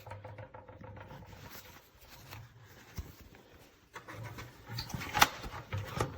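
Handling noises from a replacement bag and the bag compartment of a bagged upright vacuum: faint rustling, then a run of scrapes and small plastic clicks starting about four seconds in, the sharpest about five seconds in.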